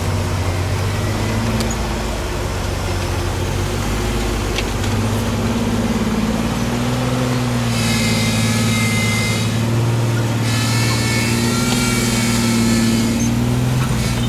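Lifted four-wheel-drive truck's engine running under load over rough off-road terrain, its revs rising and falling. A high whine joins in twice in the second half.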